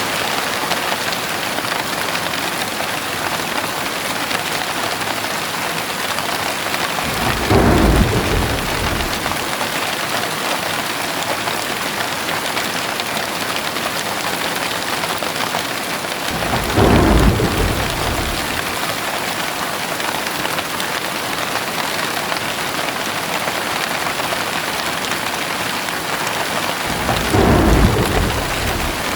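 Heavy rain falling steadily, with three short rumbles of thunder about ten seconds apart.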